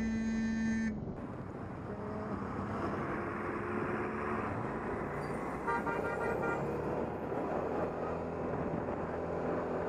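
A vehicle horn sounds for about a second, then road traffic noise continues, with a second, shorter horn-like tone past the middle.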